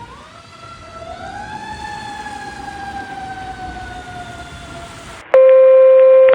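Fire engine siren winding up in pitch and then slowly sliding down, heard at moderate level. Near the end it cuts off suddenly and a much louder, steady dispatch alert tone from a fire radio takes over.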